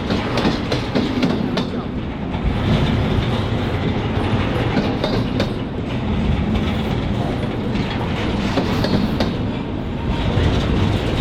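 Norfolk Southern freight train rolling past, a steady loud rumble with scattered clicks from the wheels over the rails.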